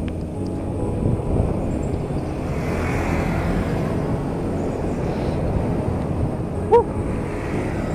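Steady low rumble of a vehicle on the move. About seven seconds in there is one short pitched beep.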